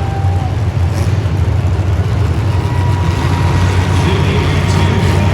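Loud, steady motor vehicle engine noise.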